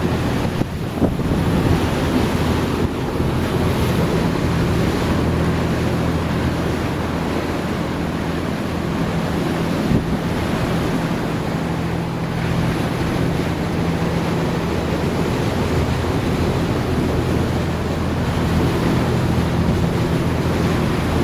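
Strong wind buffeting the microphone and water rushing past the hull of a 36-foot Mariner Searanger cruiser underway. A steady low engine drone runs beneath the noise.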